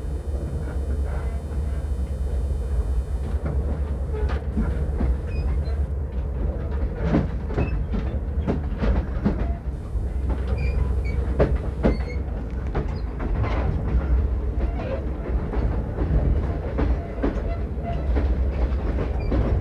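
Commuter train running along the track, heard from inside the carriage: a steady low rumble with frequent irregular sharp knocks and rattles.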